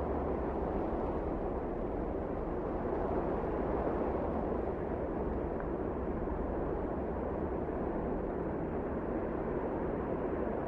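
Wind blowing steadily: a deep, even rush of noise with no distinct gusts or breaks.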